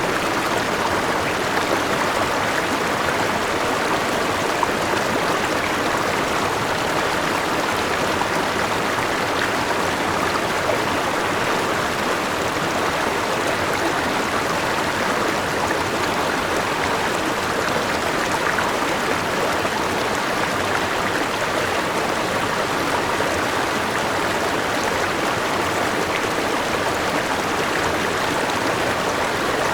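River water rushing steadily over rocks and a small waterfall, a continuous even rush with no breaks.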